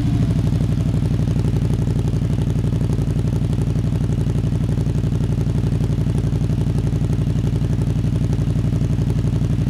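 Motorcycle with a GPR aftermarket exhaust idling steadily, the exhaust note an even, rapid pulsing beat.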